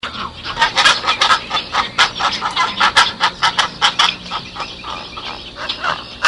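Domestic fowl calling: a dense run of short, repeated calls, several a second, starting suddenly.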